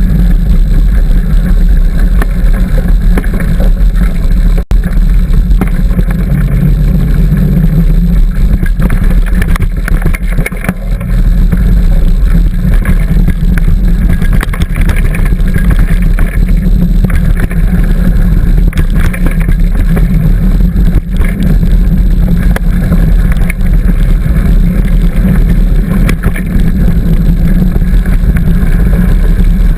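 Loud, steady low rumble of a bicycle ride on a trail, with wind buffeting the camera's microphone and light rattles and clicks from the bike over the ground.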